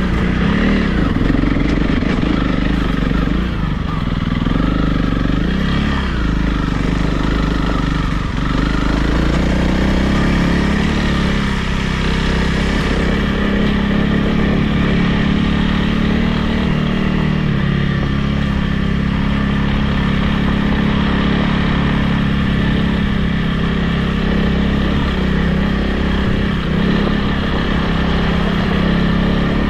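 Honda CRF300 Rally's single-cylinder four-stroke engine running under way, heard from on the bike: the revs rise and fall several times over the first eight or nine seconds, then hold a steadier note.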